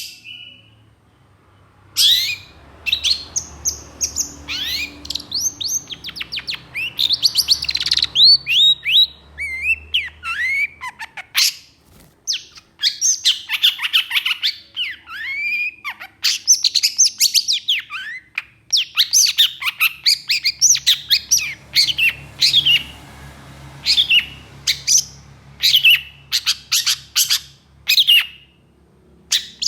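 Long-tailed shrike (cendet) singing hard: rapid runs of sharp, harsh notes, many sliding quickly downward, with a short pause at the start and another about twelve seconds in.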